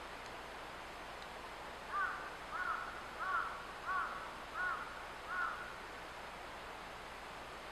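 A bird calling six times in an even series, each call a short arched note, over a steady background hiss.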